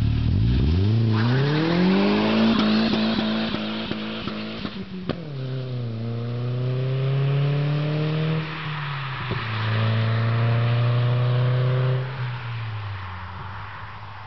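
Audi A3 1.8T's turbocharged four-cylinder engine pulling away hard from a standstill. The revs climb and hold high for a few seconds, drop at an upshift about five seconds in, and climb again through the next two gears. The sound then fades as the car drives off.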